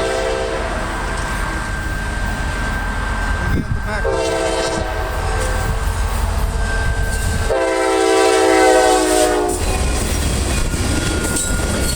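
Norfolk Southern GP60 locomotive's air horn sounding: a blast that ends just after the start, a short blast about 4 seconds in and a longer one of about two seconds starting about 7.5 seconds in. The train rumbles steadily underneath.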